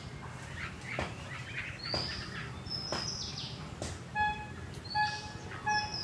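Birds chirping with short rising whistles and sharp call notes. About two-thirds of the way through, a flat two-pitched beep starts repeating at an even pace underneath.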